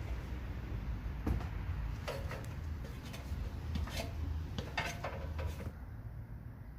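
Scattered light knocks and clunks, about one a second, from a ladder and tools being handled as someone carries nails, a hammer and a roll of roofing up to a garage roof, over a steady low rumble.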